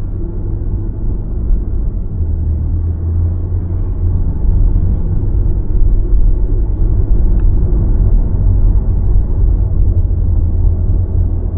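Road noise of a car being driven: a steady low rumble of tyres and running gear, growing louder about four seconds in.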